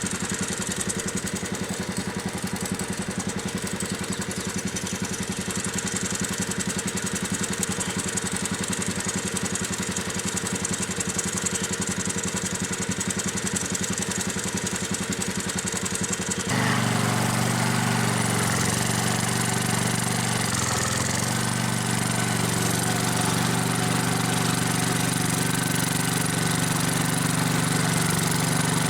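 Gravely tractor's engine running under load, driving a rotary plow digging a trench. About 16 seconds in the sound changes abruptly to a louder, steadier engine note.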